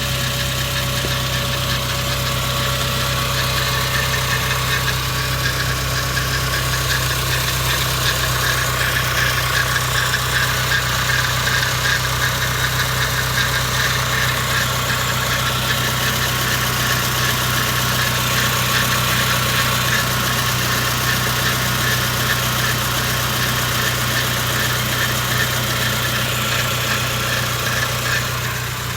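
Suzuki J20A 2.0-litre four-cylinder engine idling steadily, with a fast, fluttering rattle over its hum from a few seconds in until near the end. It is an intermittent idle noise that the owner has not traced: it remains with new tensioner and idler pulleys and with the accessory belt removed, so it is not from the belt drive.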